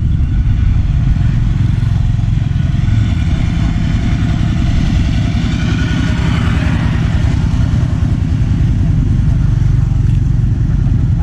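A small motorcycle engine running, loudest about halfway through, over a steady low road rumble.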